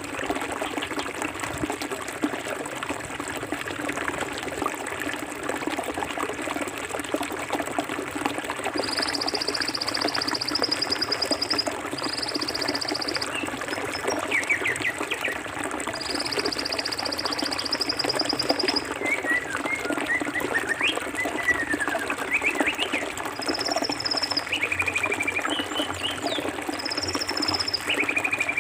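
Forest river flowing steadily over rocks, water rushing and trickling. About nine seconds in, high rapid buzzing trills start and come three times, lasting a few seconds each. Birds chirp over the water through the second half.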